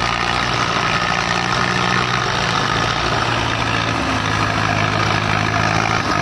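Belarus 510 tractor's diesel engine running steadily, its note shifting slightly about four seconds in.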